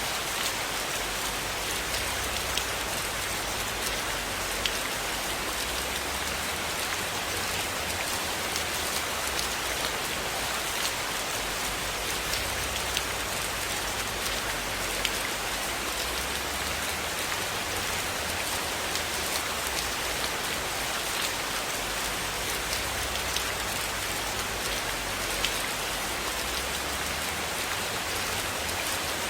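Steady, dense rainfall falling on a surface, an even hiss with occasional sharp ticks scattered through it.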